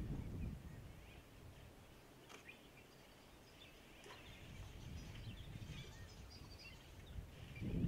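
Faint scattered bird chirps over a low rumbling background noise, which fades about a second in and swells again near the end, with a couple of faint clicks partway through.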